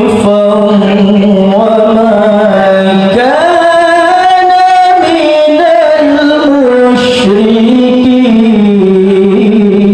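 A male qari reciting the Qur'an in melodic tajwid style, with one unaccompanied voice holding long ornamented notes that slide up and down in pitch. There are short breaks for breath about three and seven seconds in.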